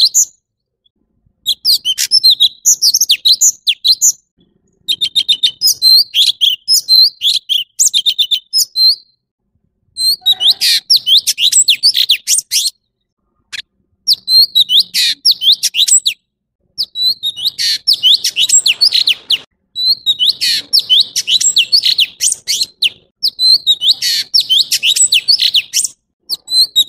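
Orange-bellied leafbird singing: phrases of rapid, varied high chirps and whistles, each a few seconds long, broken by short pauses.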